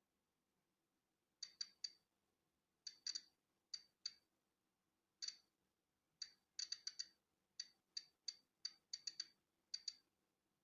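Polon EKO-C digital Geiger counter clicking at random intervals as it counts natural background radiation: about twenty short, high clicks in irregular clusters, with silent gaps of up to a second and a half between them.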